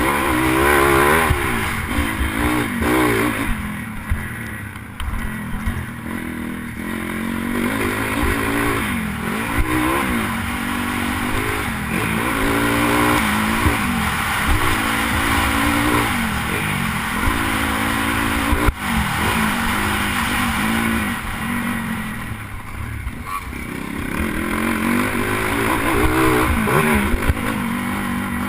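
Pitbike's small single-cylinder engine revving hard and falling back again and again as the rider accelerates, shifts and brakes through the corners, with wind rushing over the helmet-mounted microphone. A single sharp knock sounds about two thirds of the way through.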